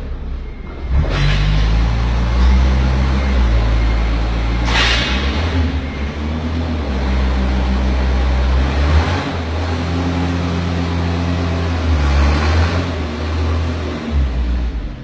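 Forklift engine running under load, its pitch stepping up and down as it is revved, with several short surges of rushing noise.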